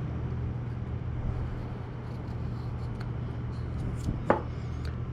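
Steady low background hum with a few faint clicks and taps as small carburettor parts are handled, one click sharper about four seconds in.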